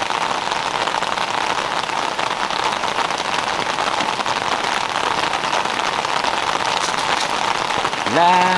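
Heavy rain falling steadily, a dense, even hiss of drops. Near the end a man's voice comes in, holding a sung note.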